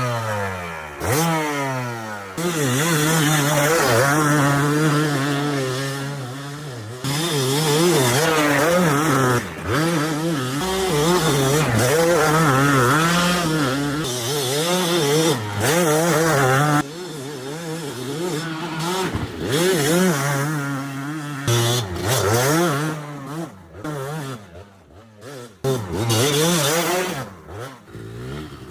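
Dirt bike engine running under constantly changing throttle, its pitch rising and falling over and over. It sweeps up steeply at the start, is louder through the first half, and drops away in short stretches near the end.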